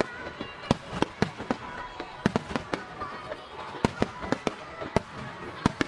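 Starmine fireworks barrage: aerial shells bursting in quick, irregular succession, several sharp bangs a second, each with a short echoing tail.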